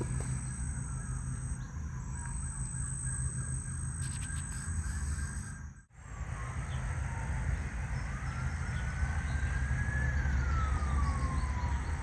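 A distant siren wailing, its pitch rising and falling slowly, over a steady low rumble. The sound cuts out briefly about halfway through.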